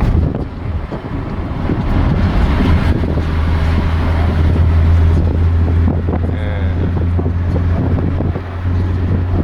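Steady low rumble and wind noise of a vehicle in motion, with a strong low hum throughout.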